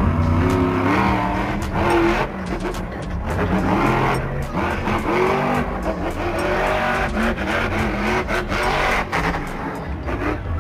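Monster truck engine revving hard, its pitch rising and falling again and again, with tyre noise and scattered sharp cracks.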